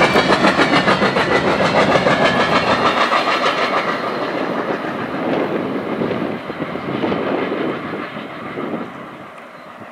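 Union Pacific SD70ACe diesel locomotive, the rear pushing unit of a freight train, rolling past close by with a rapid, even clatter of wheels on the rail. The sound fades steadily as it moves away.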